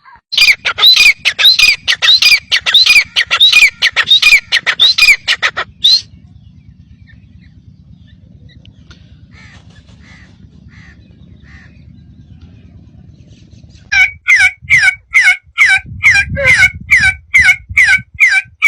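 A bird giving a rapid series of sharp, repeated calls, about three a second, for roughly six seconds. A pause with only a faint low hum follows, then another run of quick, falling calls near the end.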